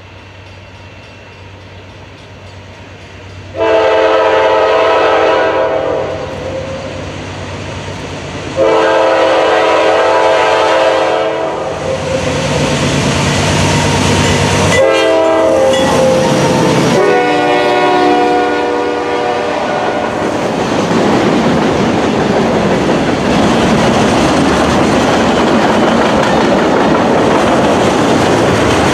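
Diesel freight locomotive sounding its multi-chime air horn in the grade-crossing pattern (long, long, short, long) as it approaches, then the train passing close by with loud wheel and rail noise and clickety-clack of the cars.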